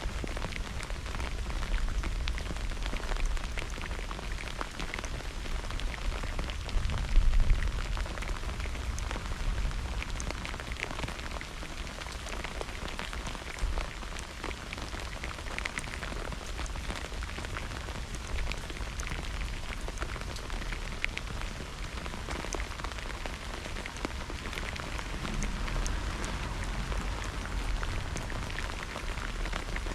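Steady rain during a thunderstorm, with many separate drop hits close by. A deeper rumble swells briefly about seven seconds in.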